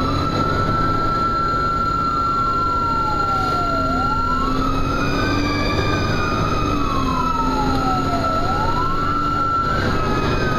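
Fire engine siren wailing, its pitch rising and falling in slow cycles of about four and a half seconds, with a steady high tone held underneath. The truck's engine and road noise rumble beneath it throughout.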